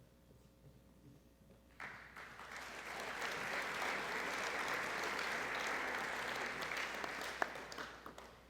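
Audience applauding, starting suddenly about two seconds in and fading out near the end.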